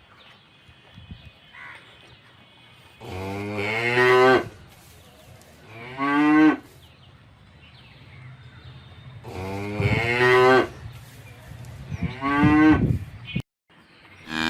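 Domestic cattle mooing: four moos in two pairs, each pair a longer call followed by a shorter one whose pitch falls away at the end.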